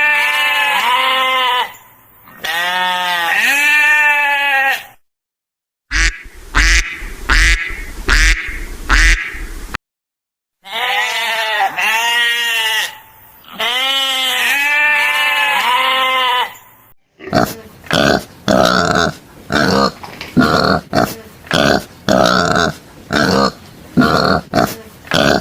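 A run of farm animal calls cut together: several stretches of repeated, wavering bleats, broken by abrupt gaps, then a fast series of short separate calls, roughly two a second, through the last third.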